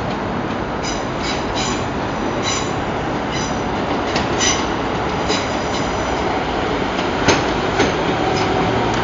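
Train moving along the rails with a steady rumble, its wheels giving short high squeals again and again, and two sharp clicks about seven and a half seconds in.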